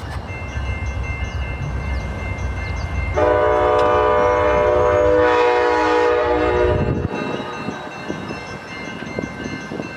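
Amtrak passenger train rumbling through a crossing, sounding a long horn blast of several tones together from about three seconds in to about seven seconds. The low rumble drops away suddenly as the horn ends.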